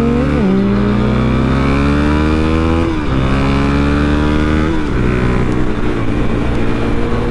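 Suzuki DRZ400's single-cylinder four-stroke engine pulling hard under acceleration, its pitch climbing and dropping sharply at three upshifts, about half a second, three seconds and five seconds in, then rising more slowly in the higher gear.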